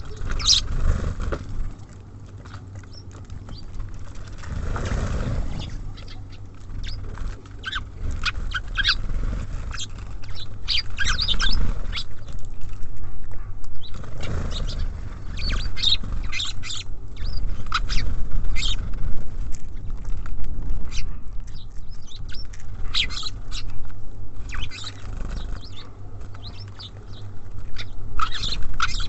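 Small songbirds at a bird feeder chirping and calling: many short, high chirps coming in quick clusters, with a low rumble about five seconds in and again near the middle.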